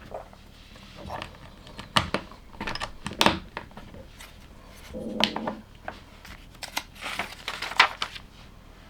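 Plastic LEGO pieces being handled and pressed together: a series of sharp clicks and small rattles, with a brief rustle about halfway through.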